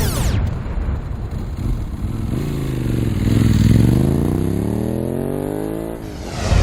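Motorcycle engine running and revving, its pitch sliding down and back up through the middle.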